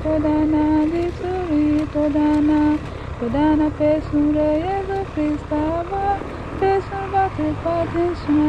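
A voice singing a slow melody of held notes that step up and down in pitch, over a steady low rumble.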